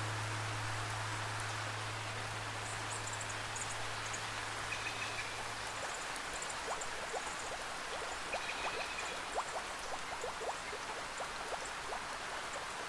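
Steady rain with running water, under a low held instrument tone that fades out about six seconds in; after that, frequent water drips plink over the rain.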